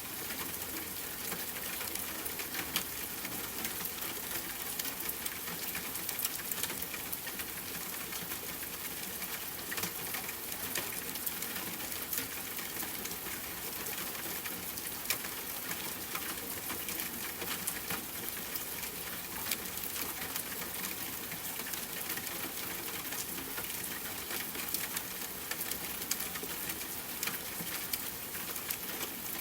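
Steady rain with a campfire crackling: an even hiss with sharp pops and ticks scattered throughout.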